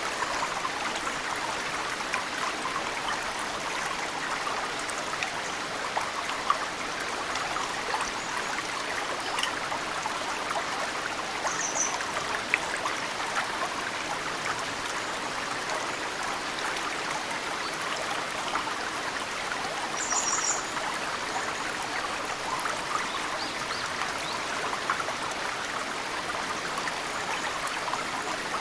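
Mountain stream running steadily, with snowmelt drips falling into it as scattered sharp plinks. A small bird gives a brief high chirp twice, about a third and two-thirds of the way through.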